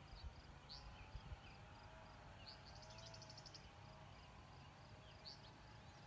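Faint songbird calls in near quiet: short high chirps and swooping notes, with a rapid buzzy trill about three seconds in, over a faint wavering hum.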